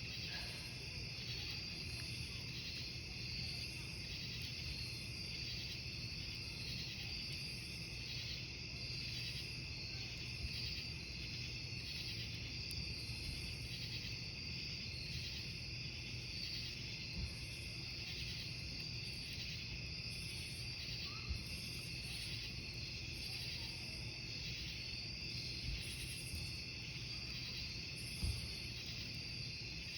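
Crickets chirping in a dense, steady chorus over a crackling wood campfire, with a few louder pops from the burning logs.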